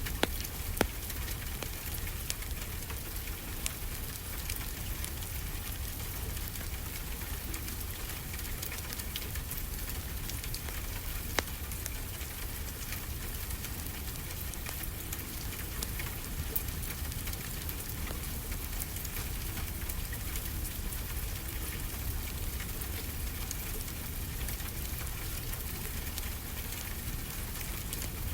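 Steady rain over a low rumble, with a wood fire crackling and popping now and then in sharp single clicks.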